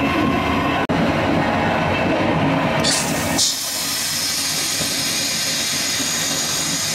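Running noise of a moving passenger train heard inside its small on-board toilet: a steady rumble with a hum. From about three and a half seconds in, the rumble thins and a steady high hiss takes over.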